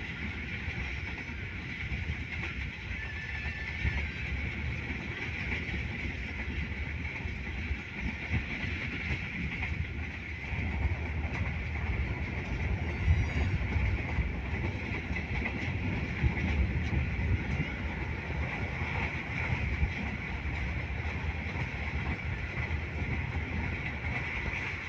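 Passenger train running at speed, heard from aboard one of its coaches: a steady rumble of wheels on the track.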